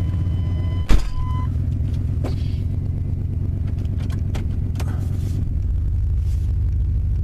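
1996 Chevrolet Tahoe's V8 idling steadily just after a cold start. About a second in a car door slams shut, and a steady high warning tone stops shortly after; the idle note changes a little past halfway.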